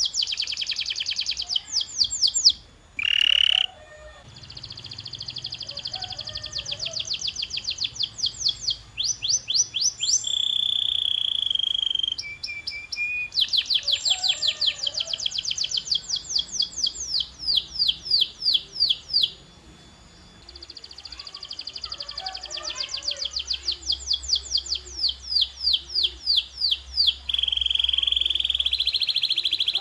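Domestic canary singing: fast trills of rapidly repeated high notes, broken by held whistled tones and two short pauses.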